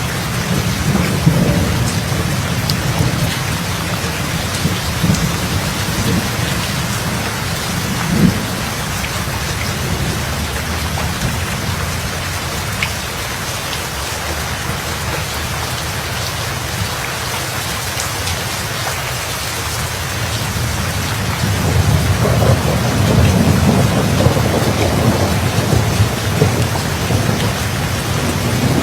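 Steady rain falling with rolling thunder. The low rumble eases off through the middle and swells again about two-thirds of the way through, with one short louder clap about eight seconds in.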